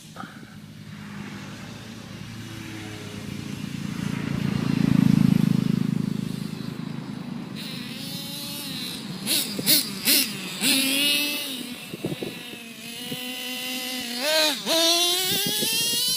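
Radio-controlled Losi truck running, its motor whining in pitch that rises and falls as it speeds up and slows down. A loud rushing noise swells about five seconds in, and a few short loud bursts break in during the second half.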